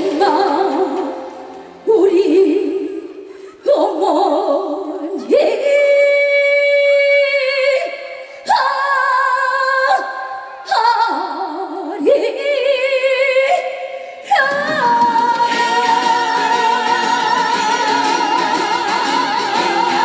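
A woman singing a slow song live with heavy vibrato over backing music, in short phrases that each begin on a sudden strong note. About fourteen seconds in, the accompaniment fills out and she holds one long wavering note.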